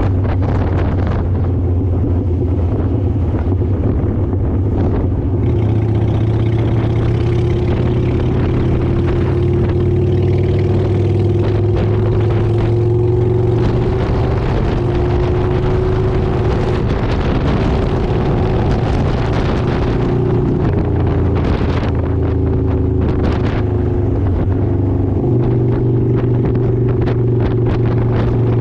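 Motorcycle engine running at a fairly steady pace while riding, its pitch shifting slightly a few times, with wind rushing over the microphone.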